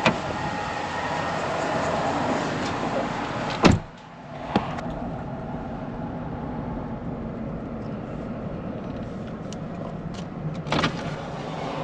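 Car with its engine running, and a sharp knock about four seconds in, after which the noise drops suddenly, as when a car door is shut. Steady cabin noise follows, with a few light clicks near the end.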